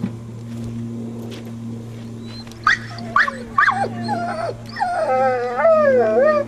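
A dog whining: several short rising yelps about three seconds in, then a long, wavering whine near the end.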